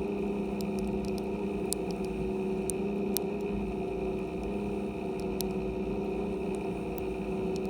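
A motor running steadily at an even speed, with scattered sharp ticks through it.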